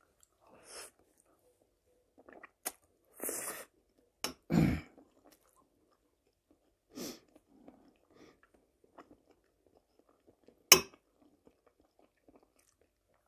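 Close-miked mouth sounds of a person eating spaghetti with fried forest mushrooms: soft chewing and mouthfuls taken in short, scattered bursts. Two sharp clicks cut through, the louder near the end.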